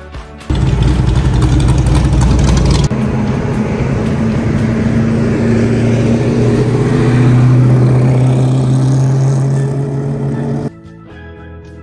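Car engine accelerating loudly. The sound starts abruptly and its note changes about a third of the way in. It then climbs slowly in pitch before easing off, and cuts off suddenly near the end.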